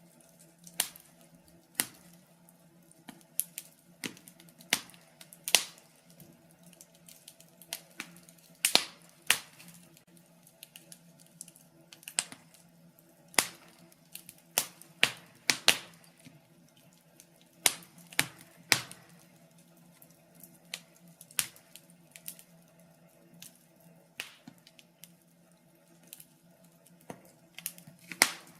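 Logs burning in a fireplace, crackling with irregular sharp pops and snaps, a few much louder than the rest, over a low steady hum.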